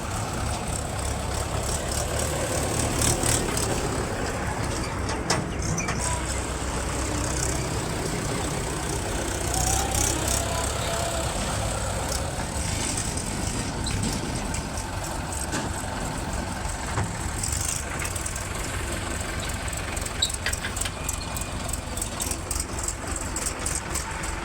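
Diesel engines of a JCB loader and a tractor running steadily while loading mud, with a few short sharp knocks scattered through.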